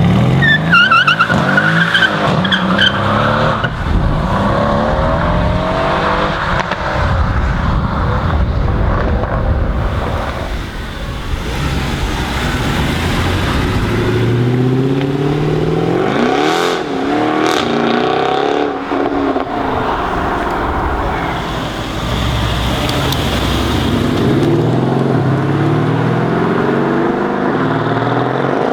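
Mercedes-AMG car engines revving hard, rising and falling repeatedly, with tyres squealing under a burnout, most plainly about a second to three seconds in.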